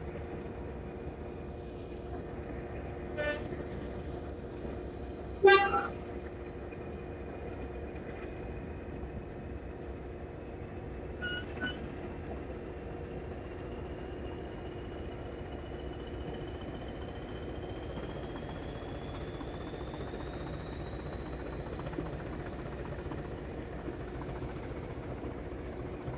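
Train horn sounding short toots, the loudest about five seconds in and a brief pair near twelve seconds, over the steady running hum of a diesel-hauled heritage train. A faint whine slowly rises in pitch through the middle.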